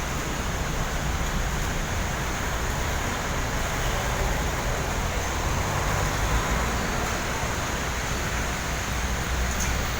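Steady noise of road traffic and falling rain, even throughout with no single event standing out.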